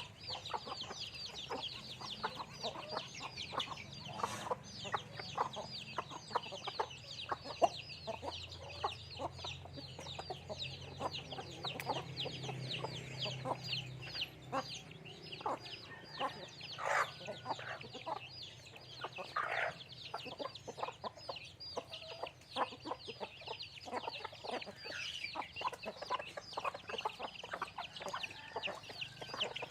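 A flock of chickens clucking at their feed, with a constant chatter of short, high peeps and many small clicks.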